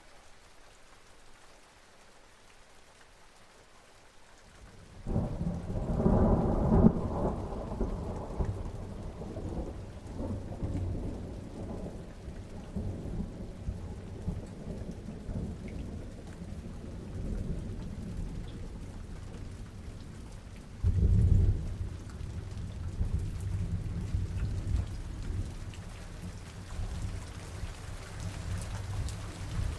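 Steady rain from a distant summer thunderstorm. About five seconds in, a thunderclap breaks in and rolls on as a long low rumble, and a second, shorter clap comes about twenty-one seconds in.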